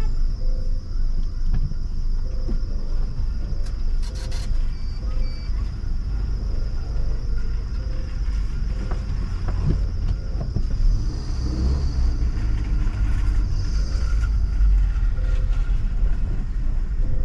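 A car being driven, giving a steady low rumble of engine and road noise.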